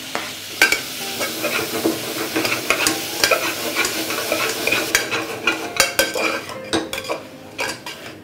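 Chopped onion, tomato, carrot and coriander sizzling in melted butter in an aluminium pressure cooker while a metal spoon stirs them, clicking and scraping against the pot. The sizzle fades about five seconds in, and the stirring clicks go on.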